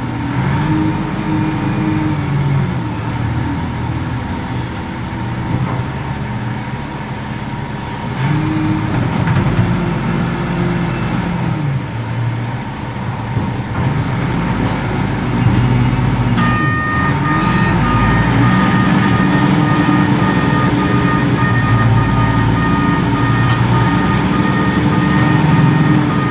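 Reach stacker's diesel engine running, its pitch rising and falling repeatedly as it revs up and down under work. Past the middle a steady high two-pitch whine or alarm tone comes in and holds.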